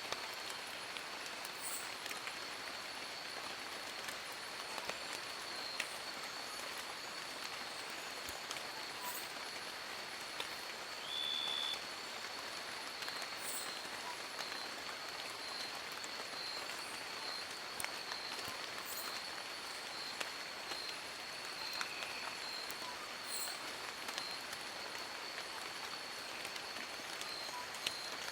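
Steady rain falling on forest leaves, an even hiss with scattered individual drop ticks. A continuous high-pitched tone runs under it, and a brief high whistled note sounds about eleven seconds in.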